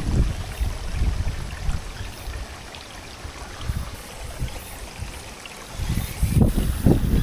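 Rainwater runoff from the hillside flowing and rushing, with low gusts of wind buffeting the microphone at the start and again near the end.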